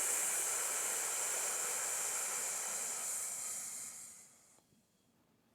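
A man's long, steady 'sss' hiss breathed out slowly through the teeth with the tongue behind them: the lung sound of the Taoist Six Healing Sounds. It fades and stops about four seconds in.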